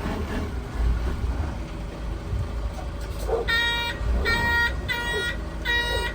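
Delivery truck's engine running low, and about three and a half seconds in its reversing alarm starts beeping, a pitched half-second beep repeating about three times every two seconds.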